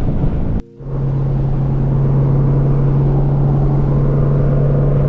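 Car engine and exhaust running on the road: a rough rumble that breaks off abruptly for a moment under a second in, then a steady, even drone as the car cruises.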